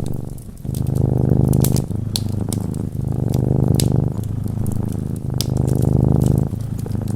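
Cat purring close up, in a steady rhythm of alternating breath phases about a second long each, with a short dip about half a second in. Fire crackling over it, with scattered sharp snaps.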